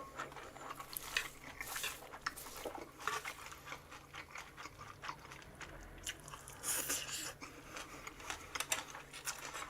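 A person chewing food close to the microphone, with scattered wet mouth clicks and smacks and a few brief louder bites.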